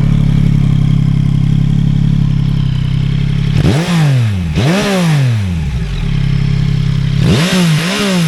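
Yamaha MT-09's three-cylinder engine, with an Akrapovič exhaust, idling in neutral and then blipped. About four seconds in it is revved sharply twice, falling back to idle each time, and near the end it gets two more quick revs.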